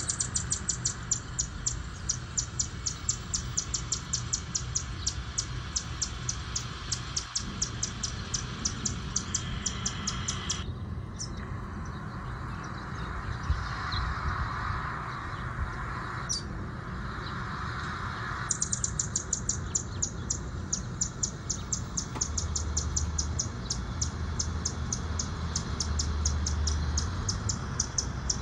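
A bird giving a rapid, very regular series of short, high chips, about four a second, which break off for several seconds in the middle and then resume.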